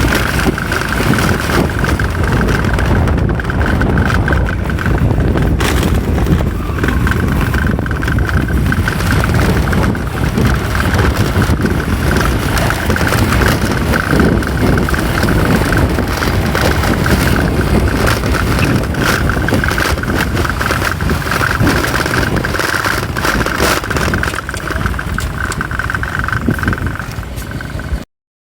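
Motorcycle running on the move, with heavy wind rumble on the microphone and a steady high whine over it. The sound cuts off suddenly near the end.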